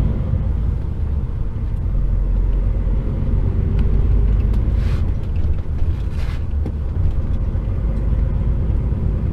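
HGV tractor unit's diesel engine and road noise heard inside the cab as a steady low rumble, with two short hisses about five and six seconds in.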